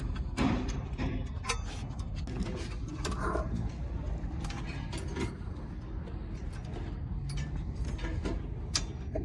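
Scattered metallic clicks and knocks of hand tools and engine parts being handled, over a low steady rumble.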